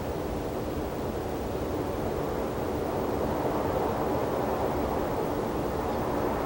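Steady outdoor rushing noise from an open-air desert field recording, growing slightly louder over the second half.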